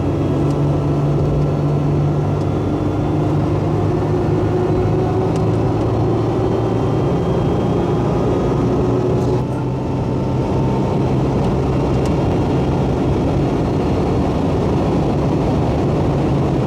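Supercharged 2002 Nissan Xterra's V6 engine accelerating hard under way, its pitch climbing steadily, dipping briefly about nine and a half seconds in at a gear change, then climbing again. The exhaust leak behind its earlier high-pitched noise has just been repaired.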